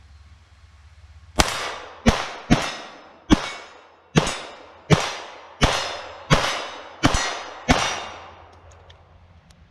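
Ten .22 LR shots from a Ruger Mark III 22/45 Target semi-automatic pistol, fired at a steady pace of a bit more than one a second, each crack ringing out briefly before the next.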